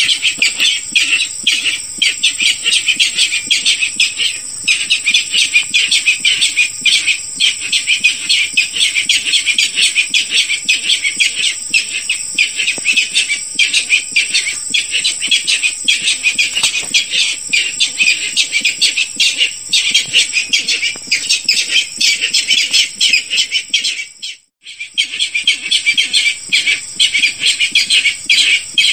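Recorded calls of a barred rail: a dense, unbroken run of rapid, repeated shrill notes, with a brief break about 24 seconds in, over a steady high-pitched whine. This is a hunter's lure call, played to draw rails in.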